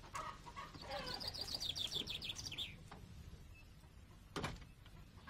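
A songbird singing a fast trill of rapid high notes that falls a little in pitch, lasting about two seconds. A single sharp knock follows a little over four seconds in.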